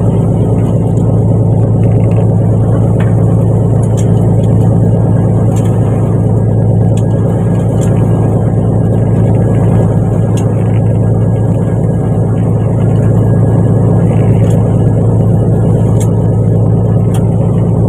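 Fishing boat's engine running steadily with a constant deep hum, a few faint ticks over it.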